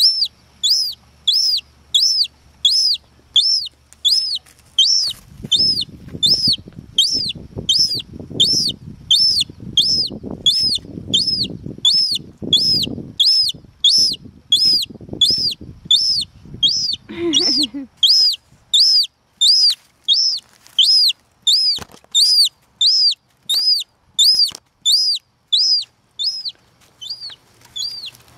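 Young gull chick giving its repeated begging peep, a short high arched whistle about one and a half times a second, on and on without a break. A low rustling runs under it for several seconds in the first half.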